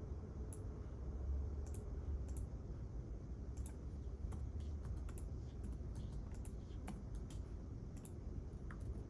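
Quiet library ambience: scattered, irregular clicks of keyboard typing over a steady low hum.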